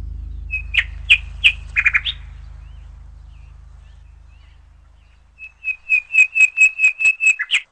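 Small bird chirping: a few sharp chirps about a second in, then a quick run of about ten chirps, around five a second, near the end. Underneath, the low tail of background music fades out.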